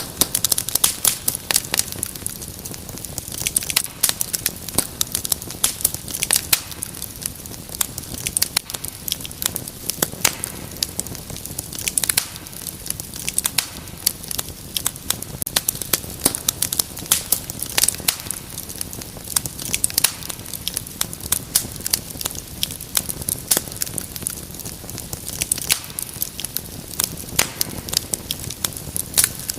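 Wood fire crackling steadily: dense, irregular sharp pops and snaps over a low, even hiss.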